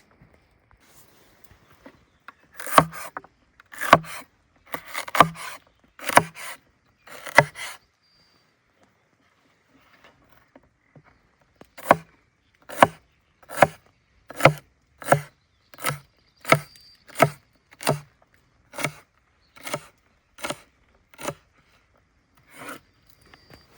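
A blade chopping into wood with sharp strikes: an uneven handful, a pause of a few seconds, then a steady run of about a dozen chops a little under a second apart.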